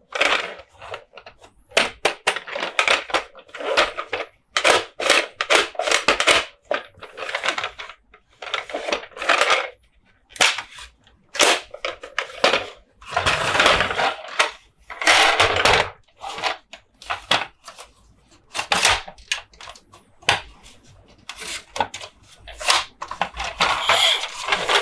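Monster Jam toy trucks and their packaging handled close to the microphone: irregular bursts of clicking, tapping and scraping, each a fraction of a second to about a second long, with short gaps between them.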